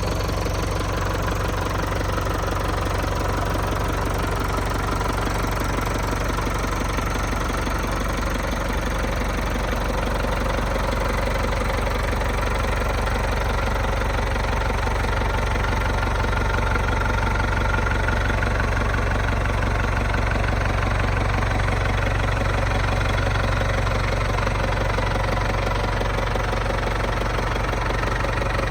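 International Harvester 544 row-crop tractor engine idling steadily.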